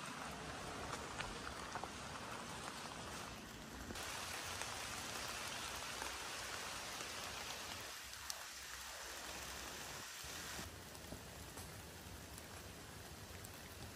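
Steady rain falling, an even hiss with scattered faint drop ticks. The hiss turns brighter about four seconds in and duller again near eleven seconds.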